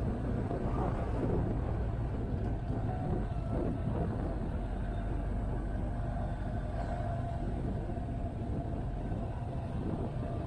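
Motorcycle running along the road at a steady pace: continuous low engine rumble mixed with wind and road noise on the microphone.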